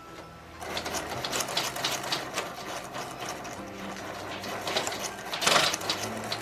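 Little Live Pets Flutter Wings butterfly toy's small geared motor flapping its wings, a rapid mechanical clicking whir, louder briefly near the end.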